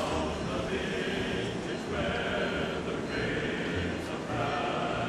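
Amtrak passenger train rolling past at close range, its rumble mixed with sustained choral singing whose chords change about once a second.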